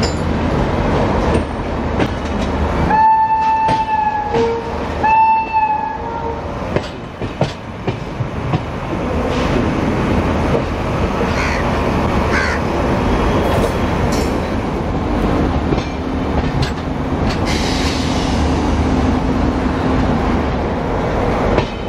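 Two blasts of a train horn about three and five seconds in, each about a second long, over the steady rumble and clatter of the Shatabdi Express coaches rolling over station points and rail joints as the train leaves the station.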